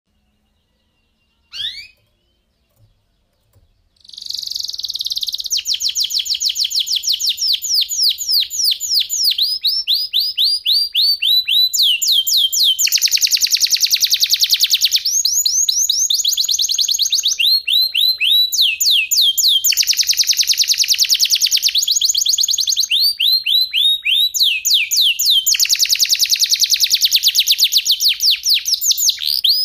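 Domestic canary singing, a long run of very rapid trills that switch from one trill to the next every few seconds. The song starts about four seconds in, after a brief rising note.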